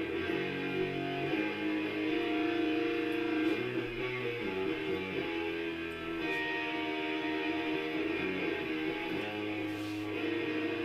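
Harley Benton HB ES-1335 semi-hollow electric guitar playing held chords over changing low notes, the chords shifting every second or so.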